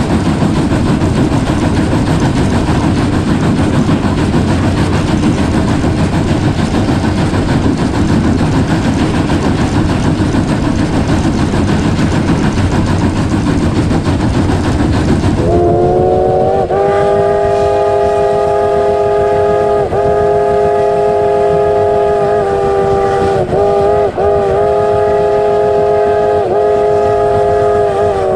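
A train runs with a loud, dense rumble. About halfway through, the steam locomotive's chime whistle starts sounding a chord and holds one long blast, with a few brief dips, to the end.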